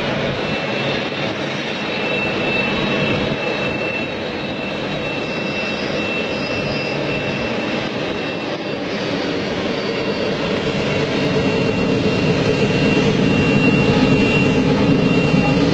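Long freight train heard from a distance as a steady rumble that grows louder in the second half. A faint, thin high-pitched squeal comes and goes over it.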